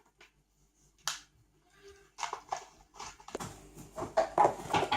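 Clicks and light knocks of small plastic toy makeup compacts being handled. One sharp click comes about a second in, then a run of clicks and rustling grows busier from about two seconds on.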